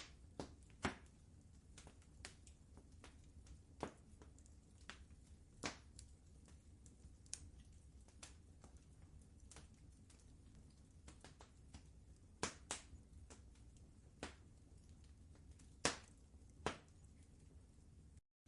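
Wood fire crackling in a fireplace: irregular sharp pops and snaps, a few much louder than the rest, over a steady low rumble. A brief dropout to silence near the end.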